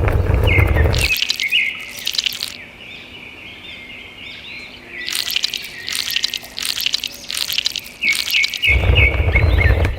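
Birds chirping and singing. A loud low rumble plays under them at the start, stops about a second in, and returns near the end.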